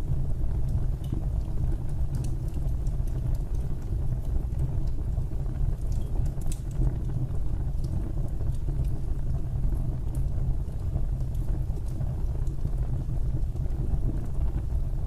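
Fireplace fire burning: a steady low rumble with scattered faint crackles and pops.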